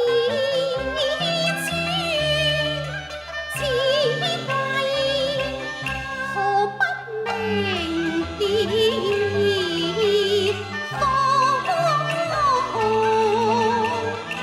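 Cantonese opera music: a sung voice with heavy vibrato and sliding pitch over a traditional Chinese instrumental accompaniment.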